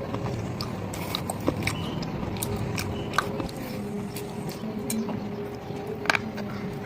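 Close-up chewing and crunching of hard slate stone: a run of sharp cracks and crackles, with louder snaps about a second and a half in, at about three seconds and near the end, over a faint steady hum.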